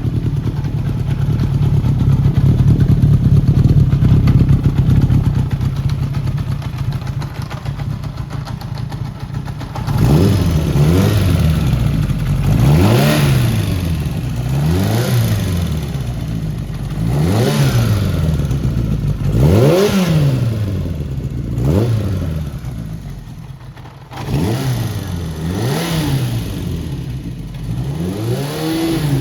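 Kawasaki Z750GP's 738 cc inline-four engine, fitted with CR carburetors and an aftermarket muffler. It runs steadily for about ten seconds, then is blipped repeatedly, the revs rising and falling about every two seconds.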